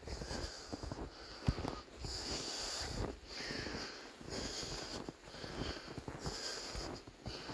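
A person breathing hard and fast, in and out about once a second, the breaths hissy.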